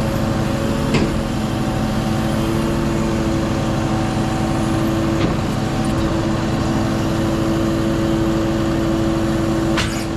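Volvo FE 320 lorry's six-cylinder diesel engine running at a steady speed, with a few sharp clicks and a brief sharper sound near the end.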